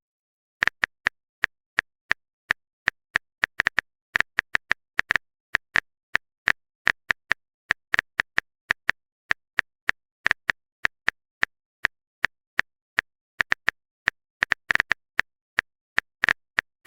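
Phone keyboard typing sound effect: a long run of short, sharp clicks at an uneven pace, several a second.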